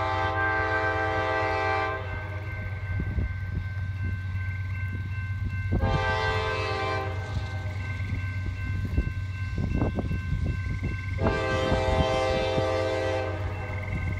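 A diesel freight train's locomotive horn sounds three blasts, each a chord of several notes, starting at the very beginning, about six seconds in and about eleven seconds in. Under the horn runs a steady low engine drone, and between the blasts the wheels clack over the rail joints.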